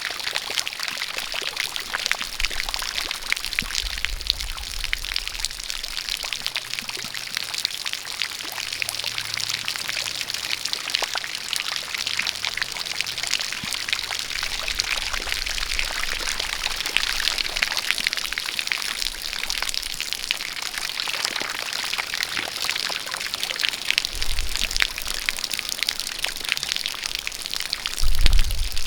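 Steady rain with a spout of water pouring, a dense even hiss full of fine drop patter. A short low rumble rises near the end.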